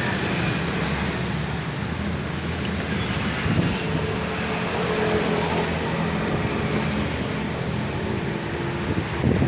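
A motor vehicle engine running steadily with a low, even hum, and a brief louder knock about three and a half seconds in.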